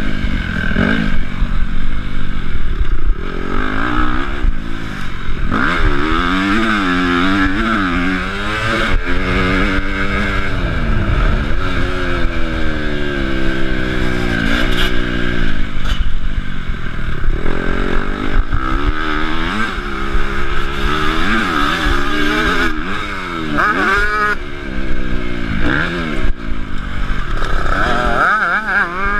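Honda CRF250 four-stroke single-cylinder motocross engine being ridden hard, its pitch climbing and falling over and over as the throttle is opened and closed and gears change.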